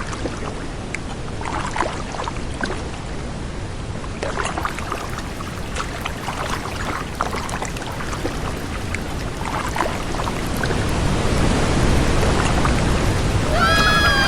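Rushing river water with scattered splashes, as of a small boat going through rapids, building to a louder, deeper rush in the last few seconds. Right at the end a pitched tone with a falling glide comes in.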